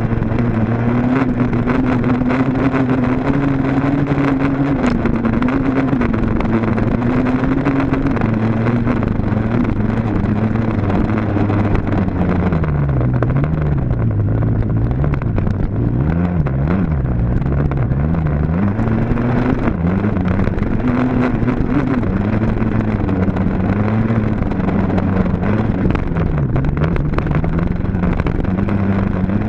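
Dirt bike engine running hard, its pitch rising and falling as the throttle is worked. The revs drop low and wobble for several seconds around the middle, then climb again.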